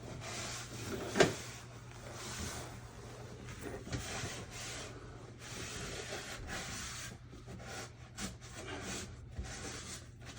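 Rubbing and scraping sounds of hands and tools at work, in a series of swishes, with one sharp knock about a second in, over a low steady hum.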